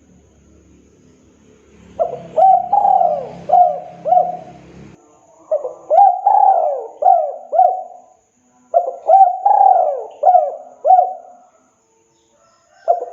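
Spotted dove (tekukur) cooing: phrases of several quick, dipping coo notes, three phrases in a row with short pauses between, beginning about two seconds in, and a fourth starting at the very end.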